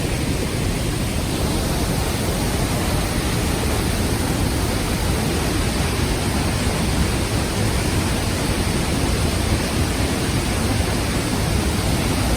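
Large waterfall heard from right beside it: a loud, steady rush of falling water with a heavy low rumble and no change.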